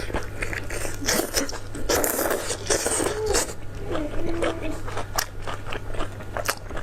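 Close-miked chewing and crunching of crisp food in the mouth: repeated sharp crackly bites and chews. There is a brief low hummed voice sound midway.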